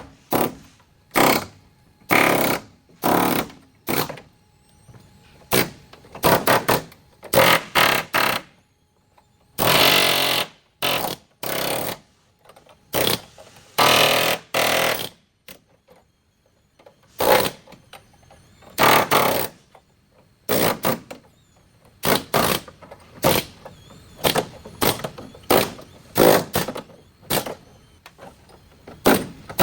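A power tool run in many short, irregular bursts, most under a second and a few lasting a second or two, with brief pauses between them.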